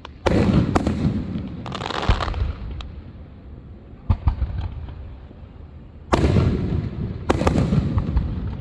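Fireworks going off: a string of loud booms with rumbling tails and scattered crackling pops. The bangs cluster near the start, a single sharp one comes about four seconds in, and two more heavy bursts follow in the last few seconds.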